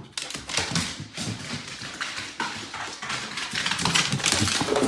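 A dog moving about, with a run of short, irregular taps and scuffles.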